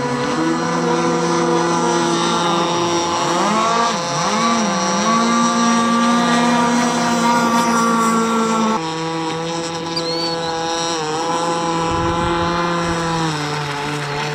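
The two-stroke gas engine of a ProBoat Rockstar 48-inch RC catamaran running at a steady, moderate throttle during break-in. Its pitch dips and climbs briefly about four seconds in, and the sound shifts abruptly about nine seconds in.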